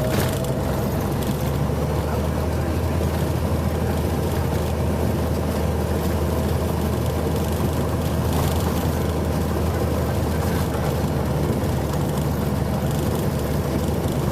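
Cessna 182's piston engine and propeller droning steadily in flight.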